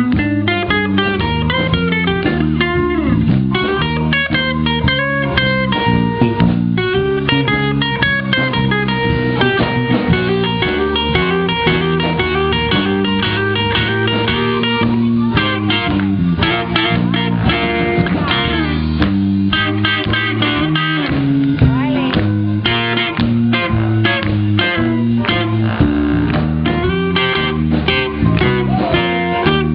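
Blues band playing with a guitar solo: quick runs of guitar notes over a bass line that steps from note to note and drums.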